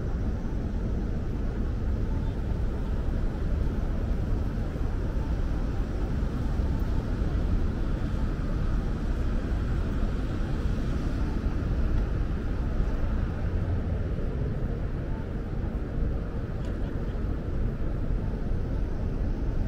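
Steady low rumble and hiss of an E5 series Shinkansen train.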